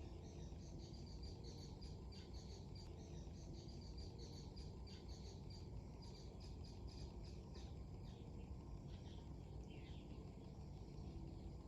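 Small birds chirping in rapid, repeated short notes over a steady low rumble of wind.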